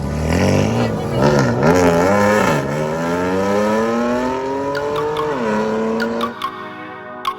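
Drag-racing car's engine revving in short blips, then accelerating hard with its pitch climbing steadily. The pitch drops sharply at a gear change about five seconds in and climbs again. It cuts off suddenly to music with plucked notes near the end.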